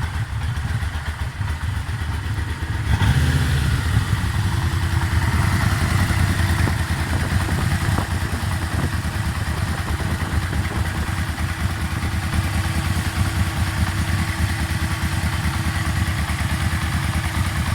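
Yamaha Vmax V4 engine idling hot, with a knocking noise that shows up once the oil is warm, which the owner suspected was low oil pressure. It gets louder about three seconds in.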